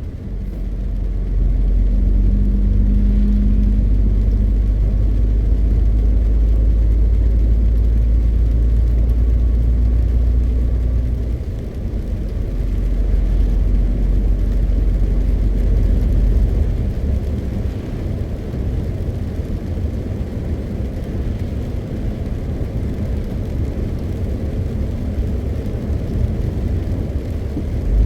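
A MAN TGX 520 truck's six-cylinder diesel engine running under way, with road noise. It is a steady, loud, low rumble that eases somewhat about two-thirds of the way through.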